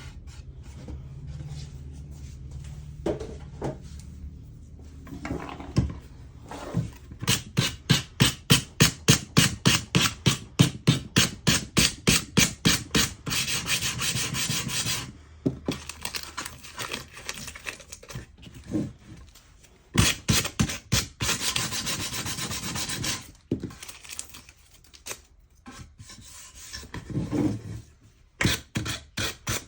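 Hand strokes rubbing back and forth on a wooden surface: a run of quick, even strokes, about three a second, then stretches of steadier scrubbing.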